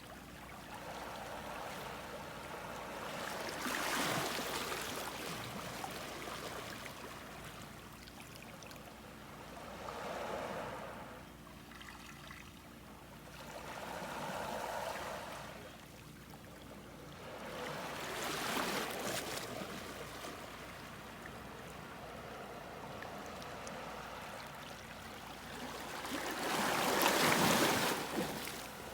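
Sea waves washing in on the shore: five surges that swell and fade over a couple of seconds each, over a steady wash of water, with the loudest surge near the end.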